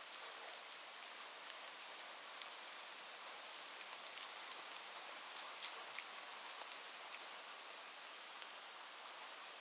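Steady rain with scattered individual drop ticks.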